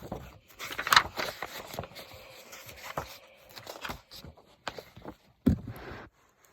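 Handling and page-turning of a picture book: paper rustling and scraping, with a louder swish about a second in and a soft knock near the end.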